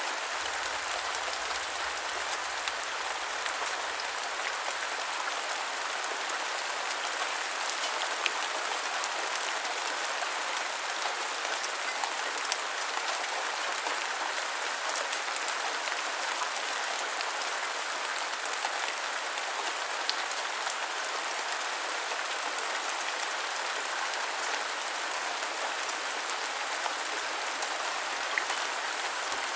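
Steady rain falling on a surface, a dense even hiss with scattered individual drops ticking through it.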